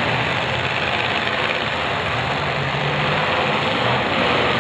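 Engines of several demolition derby cars running together, a steady din with no single crash standing out.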